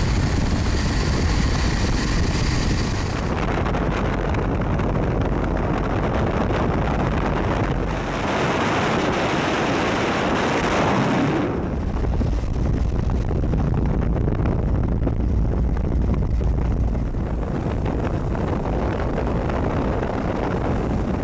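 Wind rushing over the microphone on a moving Yamaha XT660Z Ténéré motorcycle, with a steady low rumble underneath. About eight seconds in the noise shifts for roughly three seconds, the low rumble dropping away and a brighter rush taking over, before the steady ride noise returns.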